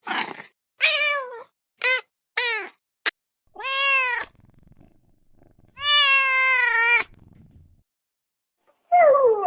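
A kitten meowing repeatedly: a quick run of short, high-pitched meows, then two longer meows, the last one drawn out for over a second. Near the end a lower, wavering cry begins.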